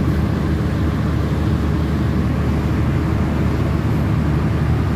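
Passenger train standing at a station platform with its engines running: a steady, low, even drone.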